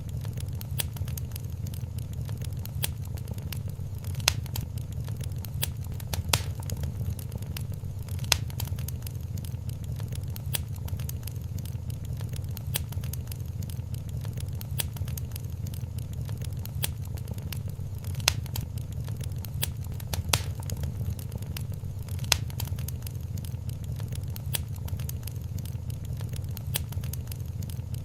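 Wood fire in a fireplace crackling steadily over a low rumble of flame, with a handful of louder pops.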